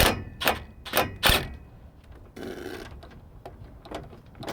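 Hand ratchet wrench clicking in a quick run of strokes on an exhaust fastener, stopping about a second and a half in, followed by faint scraping and rustling.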